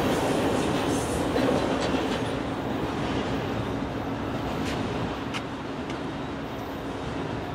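Train rolling past on the main line, its rumble slowly fading as it moves away. A steady hum holds underneath, and a few sharp wheel clicks come about five seconds in.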